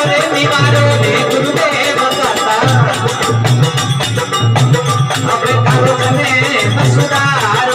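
Instrumental interlude of Rajasthani devotional folk music: a wavering, ornamented melody over a pulsing drum and a fast shaken or clacking percussion keeping a steady beat.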